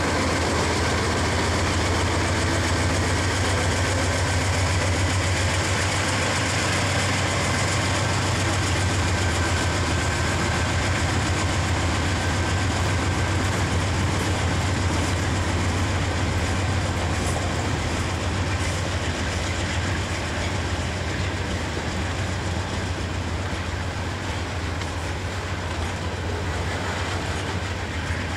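CSX freight train passing close by. At first the diesel engine of the last locomotive is heard, then the steady rumble and clickety-clack of covered hoppers and boxcars rolling over the rails, easing a little in the second half.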